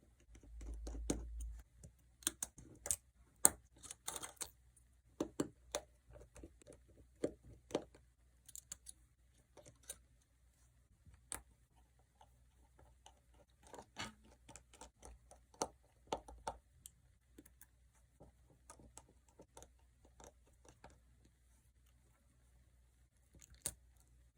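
Scattered small clicks and taps of hand tools and parts while an iPhone SE is being taken apart, with a brief low rumble about the first second and a half.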